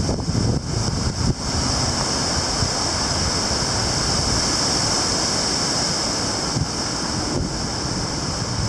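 Storm-force wind blowing hard, buffeting the microphone with low rumbling for about the first second and a half, then settling into a steadier rushing hiss.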